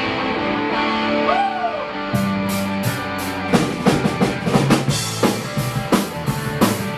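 Live rock band playing a song's instrumental intro: guitar chords ring out, then bass and drum kit come in about two seconds in and settle into a steady beat.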